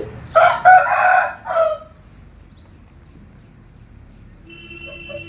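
Aseel rooster crowing once, a loud cock-a-doodle-doo lasting about a second and a half near the start.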